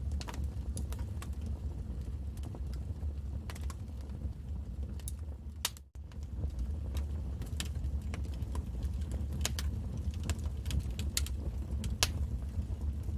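Wood fire crackling in a fireplace: irregular sharp pops and snaps over a steady low rumble of the flames, with a momentary drop-out about six seconds in.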